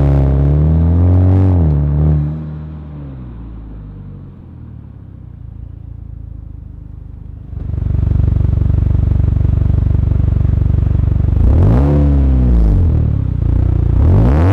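Honda Accord 2.0T's turbocharged four-cylinder through a Rev9 cat-back exhaust and PRL front pipe, revved up and down at the start, then dropping to a quiet steady run. About halfway it turns suddenly loud and steady, and near the end it is revved up and down twice more.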